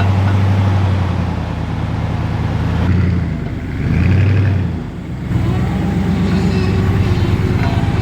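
Vehicle engine running at low speed while it is eased back and forth a little at a time. Its note dips and changes about halfway through, then settles back to a steady run.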